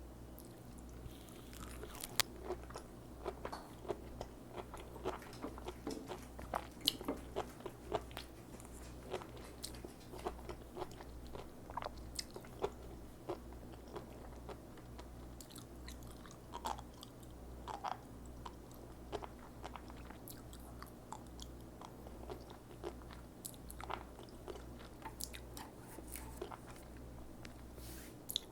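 Close-up chewing of sea grapes, a stream of small crisp crunches and pops as the seaweed's little beads burst between the teeth. A steady low hum runs underneath.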